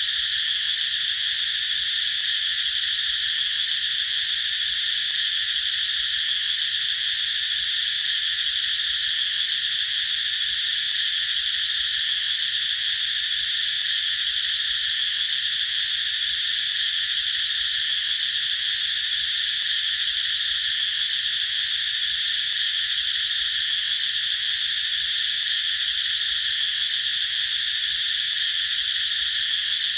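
Cicadas calling in a continuous chorus: a steady, unbroken high-pitched buzz that neither rises nor falls.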